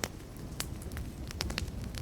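Wood fire crackling: scattered sharp pops and snaps over a low rumble, several pops in quick succession about halfway through.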